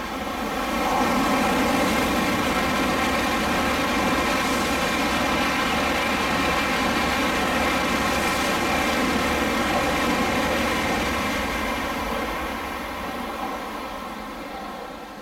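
A Tokaido Shinkansen high-speed train passing through the station at speed without stopping: a loud, steady rush of wheels on rail and air. It builds within about a second, holds for about ten seconds, and fades away over the last few seconds.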